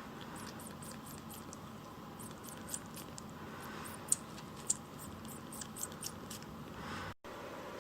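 Light clicking and soft rubbing sounds from handling and wiping a tiny kitten, a scatter of short high ticks over a steady hiss. The sound drops out for an instant near the end.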